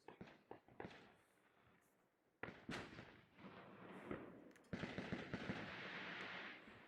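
Faint fireworks: a few scattered bangs, then from about two and a half seconds in a rapid run of pops like a machine gun that thickens into a dense, continuous crackle and fades near the end.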